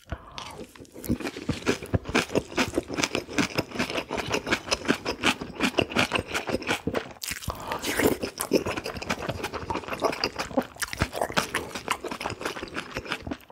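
Close-miked wet chewing and lip-smacking on spicy braised pig's trotters (jokbal), a dense run of sticky clicks and smacks with a short break about seven seconds in.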